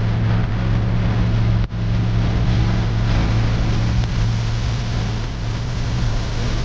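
Steady vehicle running noise: a low engine hum under a broad rush of noise, briefly cut off about a second and a half in.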